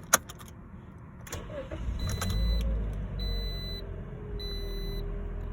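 A few plastic clicks, then a Toyota Corolla's engine starts about two seconds in and settles to idle. A cabin warning chime beeps steadily about once a second.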